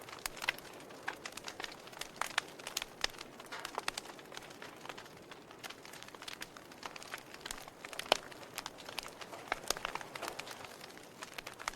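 Wood fire crackling in a fireplace: irregular sharp pops and snaps over a soft steady hiss, with one louder pop about eight seconds in.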